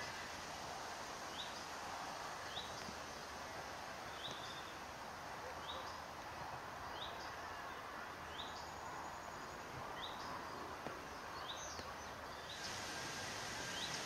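A bird repeating a short, high, rising call about once a second over a steady outdoor hiss; the hiss grows brighter near the end.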